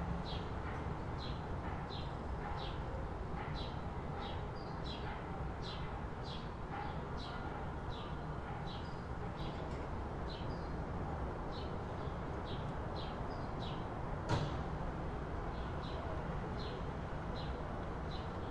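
A bird chirping over and over in short falling notes, about two a second, over a steady low rumble of distant city noise. A single sharp click comes about three-quarters of the way through.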